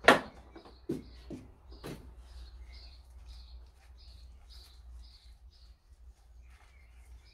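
A bird chirping over and over in the background, about two short high chirps a second. Right at the start there is one loud sharp knock, the loudest thing here, followed by three lighter knocks over the next two seconds as soil and tools are handled at the metal bowl.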